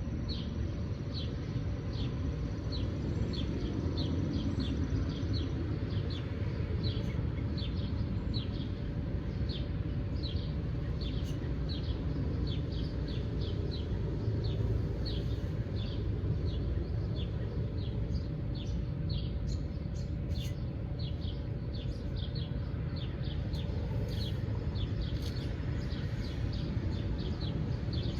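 Outdoor birds chirping, short high chirps repeated about twice a second without letup, over a steady low background rumble.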